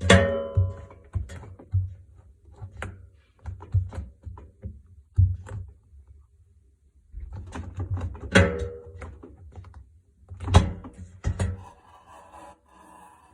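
Samsung washing machine creaking and thunking at irregular intervals as its drum moves, some creaks carrying a short ringing tone. The sound stops for about a second around the middle, then picks up again with two of the loudest creaks.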